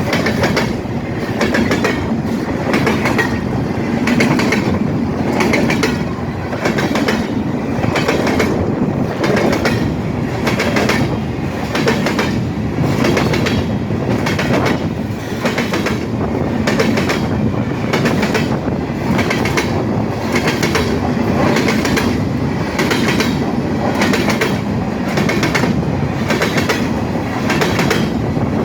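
Freight train cars rolling past, steel wheels clicking in a steady repeating rhythm over the rail joints with a continuous rumble underneath.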